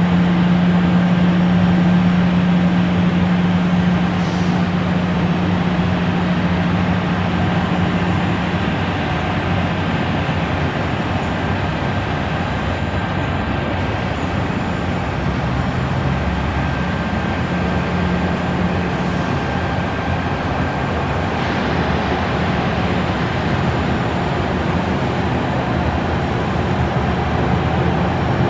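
Jet airliner engines running steadily at close range: a constant rushing noise with a low steady hum that is strongest for the first several seconds, then eases a little.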